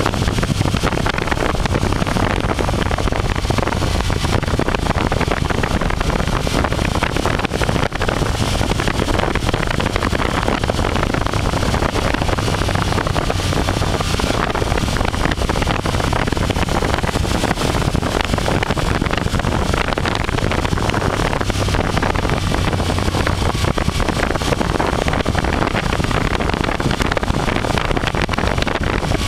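Wind rushing over the microphone of a moving motorcycle, with the steady drone of its engine underneath.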